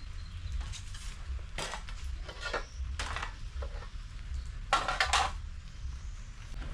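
Dishes and cutlery clinking and clattering in a few short bursts, the loudest about five seconds in, over a steady low rumble.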